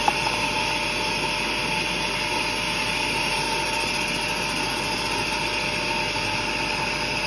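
Laser glass drilling machine running, a steady whir with a constant hum and no change in level.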